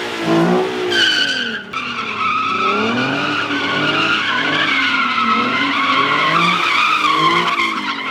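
Car doing a sustained burnout or donut: tires squealing continuously while the engine revs rise and fall.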